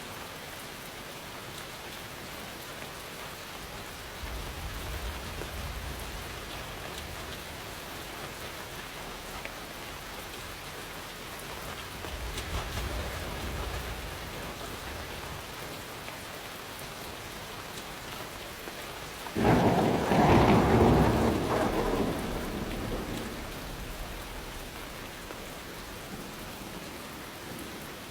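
Steady rain falling, with two faint low rumbles of distant thunder, then about two-thirds of the way in a sudden loud thunderclap that rolls on for a few seconds and dies away.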